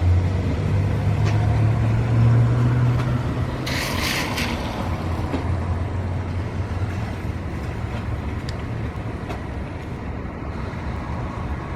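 Steady low rumble of road traffic going by, with a short hiss about four seconds in.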